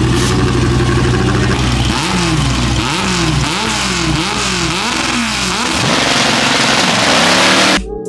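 Car engine running at a steady idle, then revved up and down repeatedly in quick throttle blips, then a loud rushing build that cuts off abruptly near the end.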